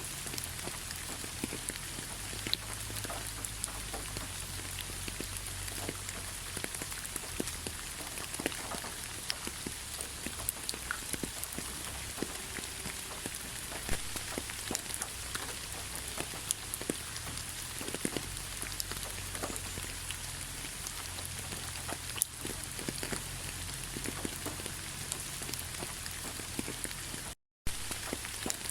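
Rain falling steadily, an even hiss with many separate raindrop taps scattered through it. The sound cuts out for a split second near the end.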